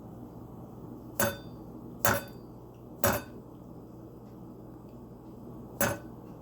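Eclectus parrot knocking its beak against its food bowl: four sharp clinks with a short ring, the first three about a second apart and the last after a pause of over two seconds.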